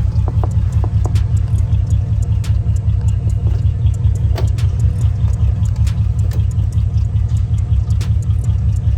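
A car engine idling, a loud, steady low rumble, with scattered light clicks and knocks over it.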